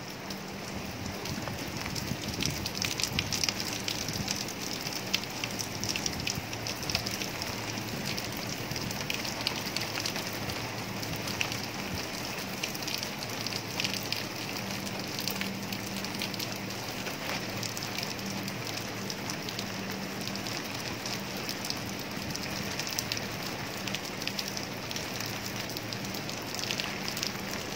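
Steady rain falling on leaves and ground, with many small ticks of separate drops.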